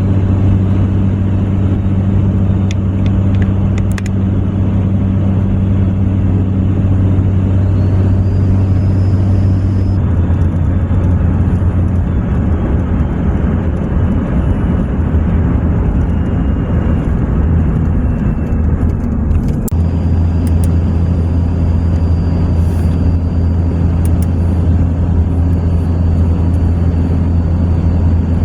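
Pickup truck driving on the road: a steady engine and road drone that turns rougher and uneven for about ten seconds in the middle before settling back to a steady hum.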